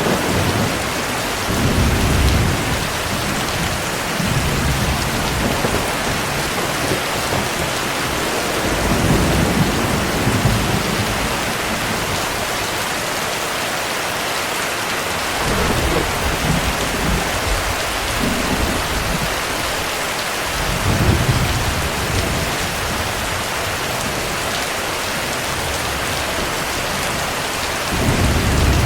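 Heavy rain falling steadily, with low rolls of thunder swelling up about five times.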